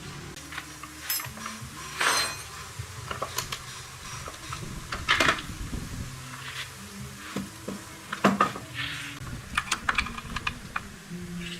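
Metal tools and motorbike parts clinking and clattering as they are handled, with louder knocks about two, five and eight seconds in.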